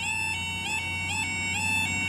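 Level crossing warning alarm sounding: an electronic tone that repeats rapidly with short upward pitch glides over a steady high tone, the 'skipping' alarm pattern.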